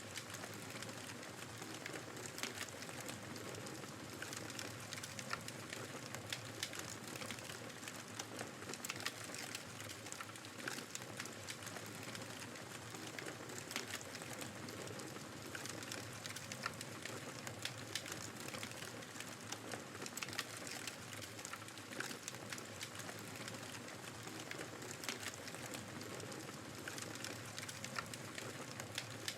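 Wood fire crackling in a fireplace, with frequent small irregular pops over a steady rushing of blizzard wind.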